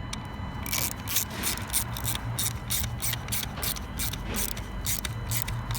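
Ratchet wrench running in a T30 Torx bolt, its pawl clicking in a quick, uneven series starting just under a second in.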